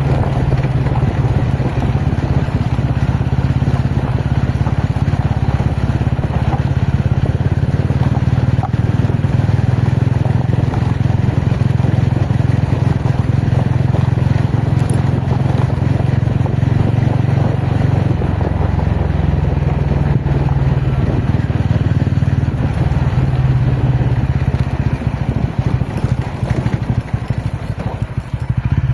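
Ronin motorcycle's engine running at a fairly steady speed while being ridden, loud and constant, with a rushing noise over it. The engine eases off briefly near the end.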